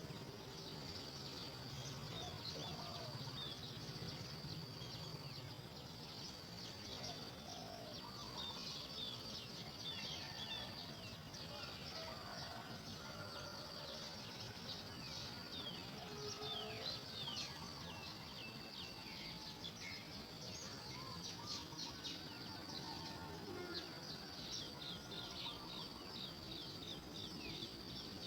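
Outdoor nature sound: a steady high insect drone with many short, quick, falling bird chirps over it, thickest in the middle and toward the end.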